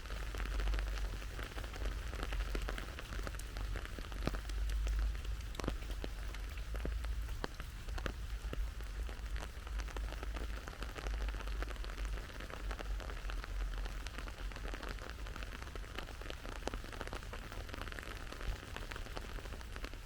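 Steady rain falling, a continuous hiss with many individual drops ticking sharply close by, over a steady low rumble.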